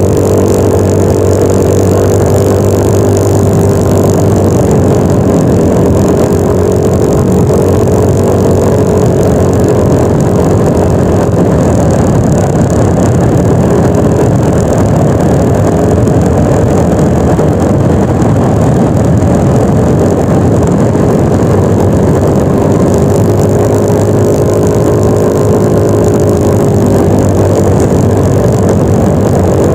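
Yamaha NMAX 155 scooter's single-cylinder engine running at a steady riding pace, its pitch drifting gently up and down, under a loud, steady rushing noise.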